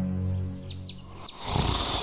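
A cow's moo trails off, then birds chirp in quick high, falling notes for under a second, and a low rumble starts near the end.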